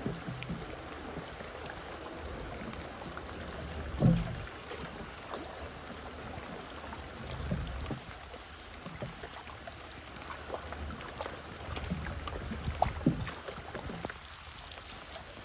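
Floodwater sloshing and trickling over a flooded street, with a loud thump or splash about four seconds in and a few smaller knocks later.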